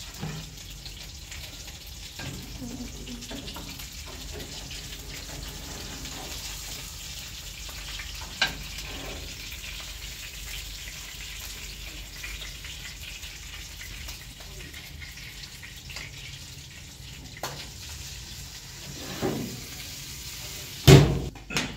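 Fish frying in hot oil in a frying pan, a steady sizzle, with a sharp clink from the spatula or plate about a third of the way in. A few scrapes and taps follow later, then a loud knock near the end.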